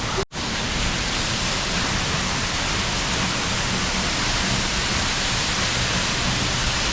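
Steady roar of South Falls, a large waterfall: a dense, even rush of falling water. It is broken once by a brief gap just after the start.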